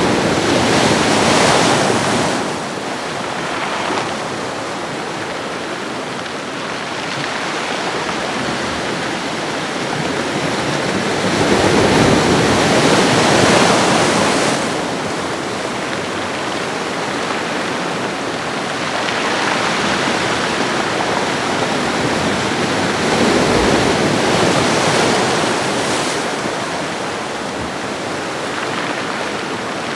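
Ocean waves washing on a shoreline: a continuous rush of surf that swells and eases, with louder surges about a second in, around twelve to fourteen seconds, and near the twenty-four-second mark.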